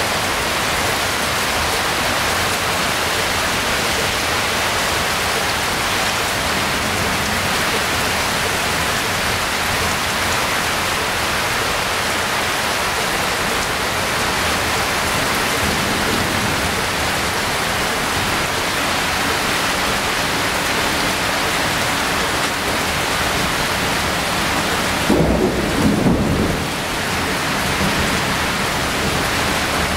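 Heavy rain falling steadily in a thunderstorm, an even hiss of downpour. About 25 seconds in there is a brief low thump.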